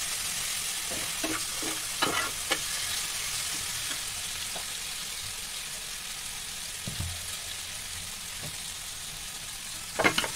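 Chopped tomatoes, potato and green chillies with ground spices sizzling in oil in a pan, stirred with a steel spatula. There is a steady sizzle, with a few scrapes of the spatula at about two seconds and a louder run of them at the very end.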